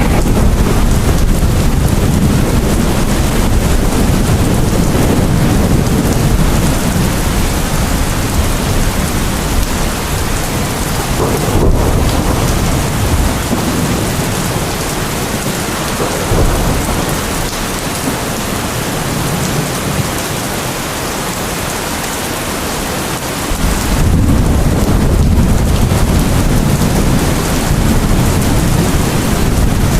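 Steady rain with rolling thunder. The low rumble eases off in the middle and swells back up about three-quarters of the way through.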